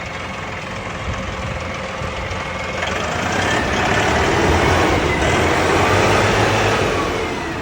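Tractor engine running as the tractor drives forward, growing louder about three seconds in and easing off near the end.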